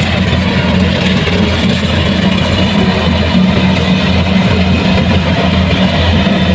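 Kubota combine harvester's diesel engine running steadily, a constant low drone.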